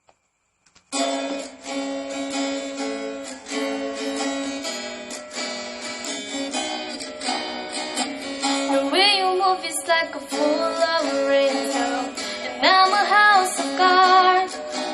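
Acoustic guitar strumming chords, starting about a second in, as a song's intro. A singing voice comes in briefly twice over it, with gliding pitch.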